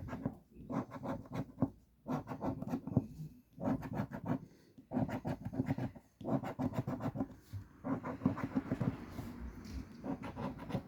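Scratch-off lottery ticket being scratched: runs of quick scraping strokes with brief pauses between them.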